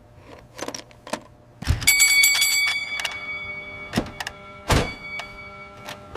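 A fire station alarm bell rings out about two seconds in, several high ringing tones that linger and slowly fade, raising the emergency call. A few small clicks come before it, and two sharper knocks follow.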